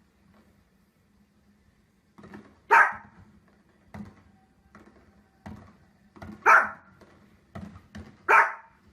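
A dog barking: three loud, sharp barks a few seconds apart, with fainter short sounds between them.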